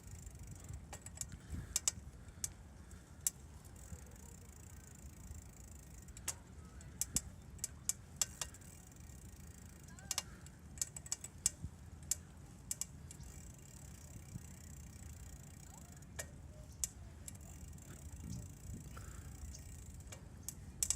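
Bicycle riding along a park path: a steady low rolling rumble with irregular sharp clicks and rattles throughout.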